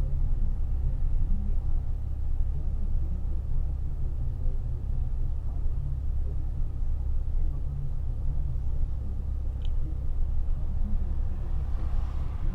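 Infiniti G35 coupe's 3.5-litre VQ35DE V6, with a Z1 touring exhaust, running steadily at a light, even load, heard from inside the cabin as a low, steady rumble mixed with road noise. There is no revving.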